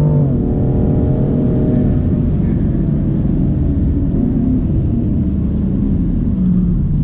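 BMW M4 Competition's twin-turbo straight-six heard from inside the cabin on track. It holds a steady high note, which drops sharply in pitch about a quarter second in. Then the engine note sinks and falls slowly into a dense rumble of road and tyre noise.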